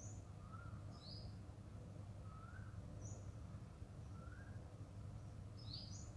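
Faint bird calls: a short rising note repeated about every two seconds, with sharp high chirps in between, over a low steady background hum.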